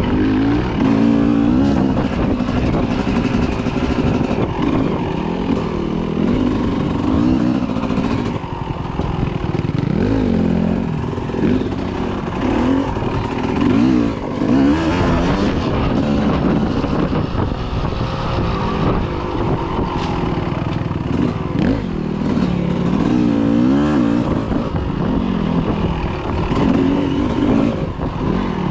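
Dirt bike engine running under way, its pitch rising and falling again and again as the throttle is opened and eased off.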